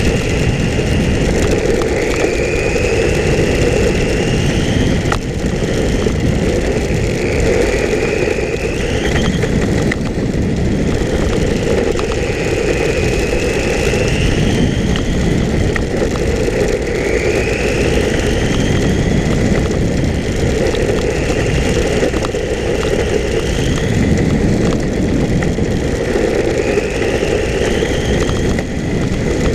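Electric motor of a 1/10-scale RC10L pan car whining up in pitch as the car accelerates, again and again every few seconds, over a steady rumble and hiss of wind and tyre noise.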